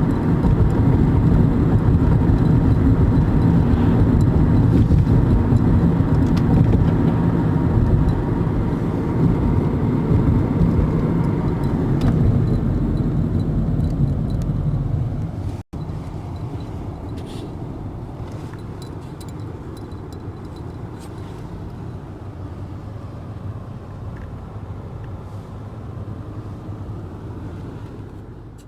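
Steady road and engine noise of a car being driven. About halfway through it cuts off abruptly, then carries on noticeably quieter.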